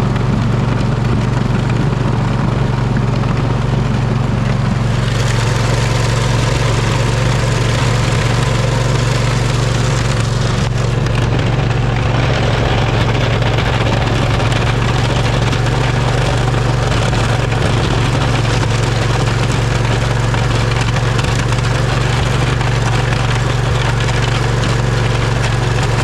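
Poulan riding mower's engine running steadily under load as it pushes a front plow blade through snow and ice. Over it there is rough scraping and crunching from the blade and the chained tires, which grows louder about five seconds in.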